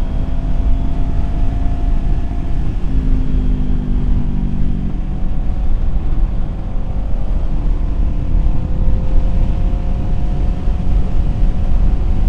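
Kawasaki Z400 parallel-twin engine running under way, its note shifting in pitch a few times, under steady wind noise on the microphone.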